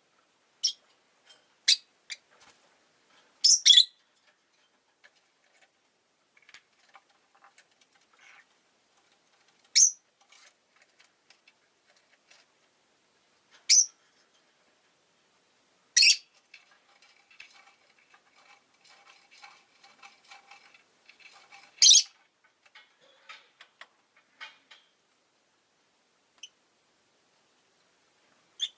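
Rosy-faced lovebird giving short, sharp, high chirps a few seconds apart, with two quick pairs in the first few seconds, and fainter soft chatter between the chirps in the second half.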